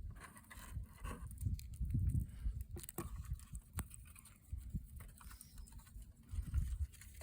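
Wind buffeting the microphone in uneven low rumbles, with a few sharp clicks in the middle.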